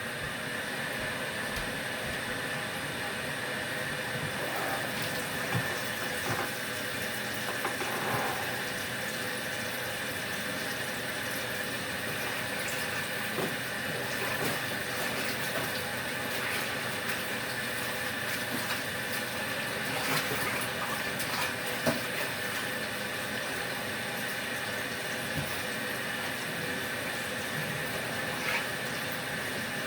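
Portable washing machine running its wash cycle: a steady motor hum with water churning in the tub, and a few small knocks.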